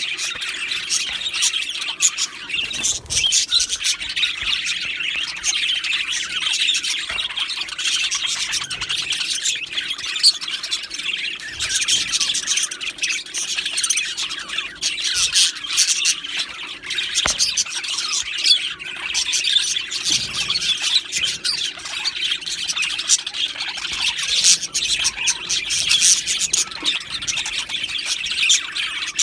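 A flock of budgerigars chirping, warbling and squawking over one another in a steady, dense chatter.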